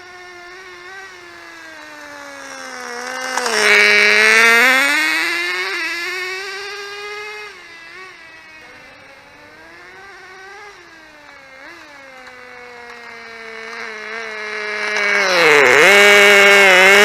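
Small engine of a 1/16-scale engine-powered RC car running at varying revs as it is driven. It grows loud twice as it comes close, about four seconds in and again near the end, with the pitch dipping sharply as it passes the second time.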